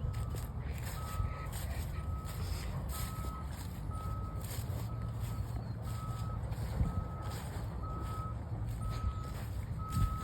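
A vehicle's reversing alarm beeping steadily, about one beep every three-quarters of a second, over a low, steady engine rumble.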